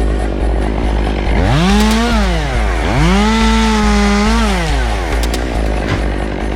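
Two-stroke chainsaw revved up twice, first briefly and then held for about a second and a half before dropping back, over a steady low engine drone.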